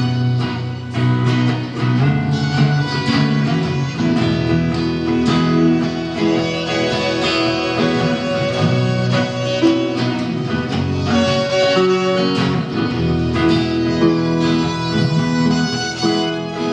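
Live band playing an instrumental passage with no singing: guitar over a steady beat, with held sustained lead notes.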